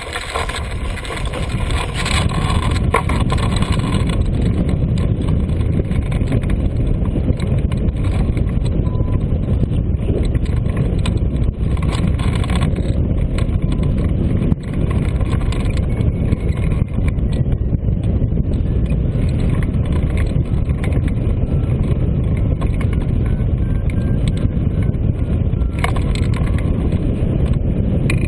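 Strong wind buffeting the microphone: a loud, steady low rumble that builds over the first few seconds and then holds.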